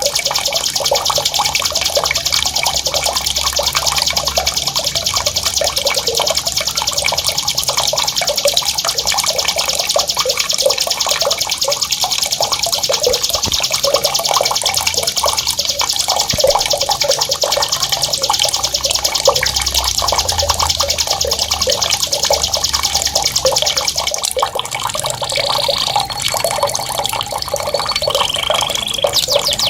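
A songbird's very fast, high rolling trill over the sound of running water. The trill stops about 24 seconds in, and a few short whistled notes follow.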